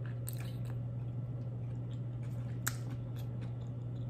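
Close-miked chewing: soft wet mouth clicks and smacks, with one sharper click about two-thirds of the way through, over a steady low hum.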